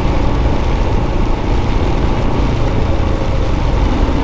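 Royal Enfield single-cylinder motorcycle engine running steadily under way, buried in a loud, even rush of wind and rain noise on the microphone.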